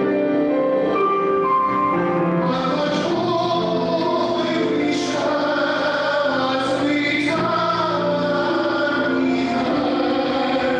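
Choral singing with long held notes at a steady level, sacred music such as a hymn or anthem.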